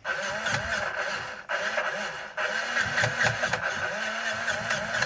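Electric motor and gearbox of a vintage remote-control truck whirring with a wavering whine, stopping briefly twice, about a second and a half and two and a half seconds in, then running on.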